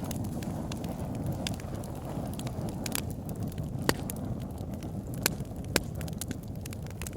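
Wood fire burning in a fireplace: a steady low rumble of flames with sharp, irregular crackles and pops of the burning logs, a few louder snaps scattered through.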